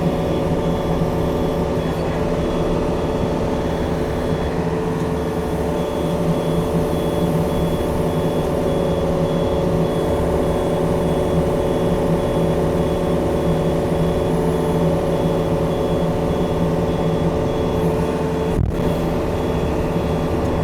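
Diesel engine of a Yanmar tracked machine running steadily under load while driving, with its travel alarm beeping at a regular pace over it.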